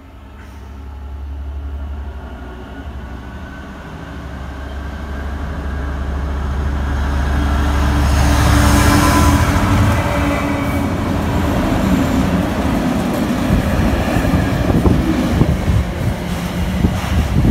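Class 66 diesel locomotive approaching and passing at speed, the low drone of its two-stroke V12 engine growing louder and peaking about eight to nine seconds in. The loaded car-carrier wagons behind it then rattle past, their wheels clattering rapidly on the rails.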